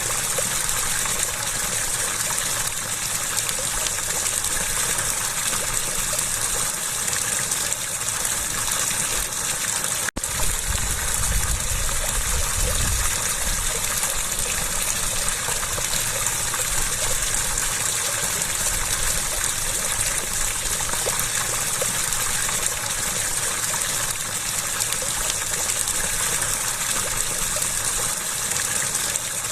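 Water rushing and gushing steadily, with a dense, even hiss. About ten seconds in, the sound drops out for an instant, then carries on the same, with a low rumble for a few seconds after.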